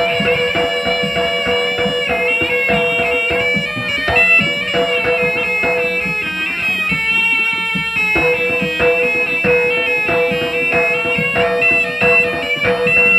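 Live Javanese jaranan ensemble music: a reedy, shawm-like wind instrument plays a melody over a held tone and rapid hand-drum strokes.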